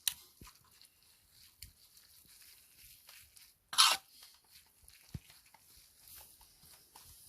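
A spoon scraping and clinking against a cast-iron cauldron lid used as a griddle for fried rice, in scattered short strokes, one louder scrape about four seconds in.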